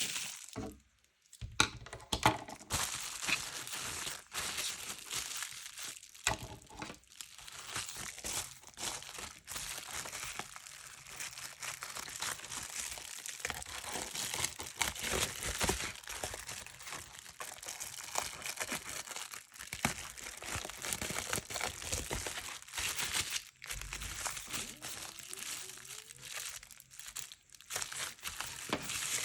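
Paper being handled: continuous rustling and crinkling, with frequent small taps and clicks.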